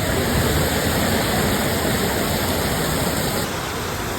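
Heavy pouring rain: a loud, steady hiss of downpour, with an abrupt change in its sound a little over three seconds in.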